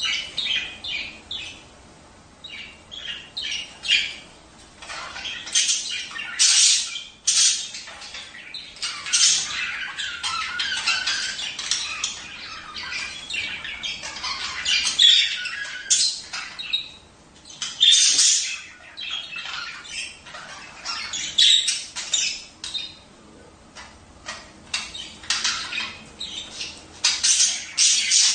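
Budgerigars chattering and squawking: a dense, busy run of short, sharp, high-pitched calls with a few brief lulls. This is flock chatter of the kind played to pet budgies to encourage them to breed.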